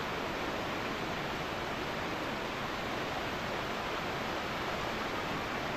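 Stormy rain pouring down, a steady even hiss.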